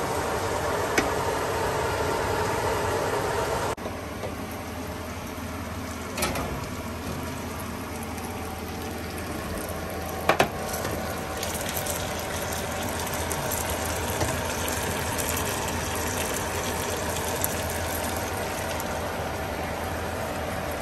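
Kitchen cooking noise: a steady crackling sizzle of food cooking in a pan, broken by three short sharp clinks of a utensil. The sizzle drops a little in level about four seconds in.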